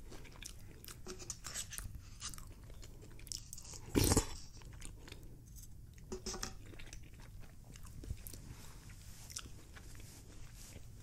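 A person chewing food close to the microphone, with small wet mouth clicks, soft crunching and a brief louder clatter about four seconds in.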